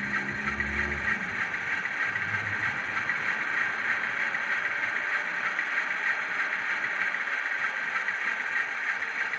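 Recorded Class 47 diesel running sound played by an N gauge model locomotive's DCC sound decoder through its tiny onboard speaker: a steady, thin, hissy drone. A low hum under it stops about a second in.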